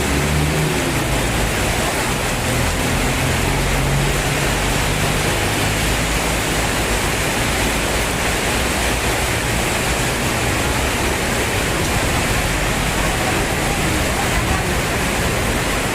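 Heavy tropical rain pouring down in a steady, loud, even hiss, with a low rumble underneath during the first few seconds.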